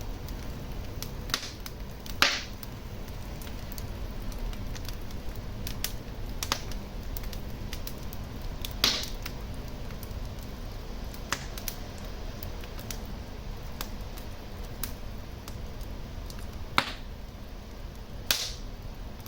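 Wood fire burning in a fireplace: a steady low rumble of flames with scattered sharp crackles and a few louder pops.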